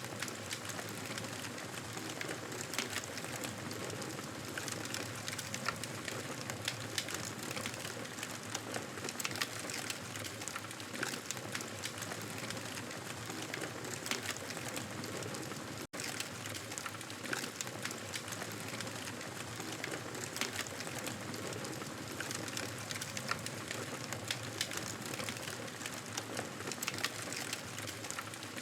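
Wood fire crackling in a fireplace: a steady hiss dotted with many small pops and snaps, which cuts out for an instant about halfway through.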